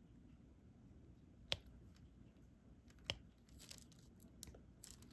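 Diamond-painting stylus and resin drills being handled on the adhesive canvas: two sharp clicks about a second and a half apart, then faint scattered ticks and rustling.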